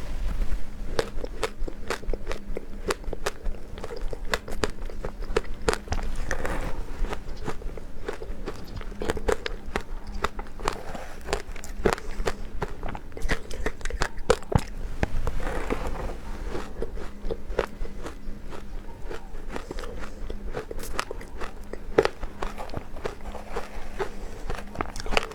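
Close-miked biting and chewing of powder-coated ice: a dense, continuous run of crisp crunches.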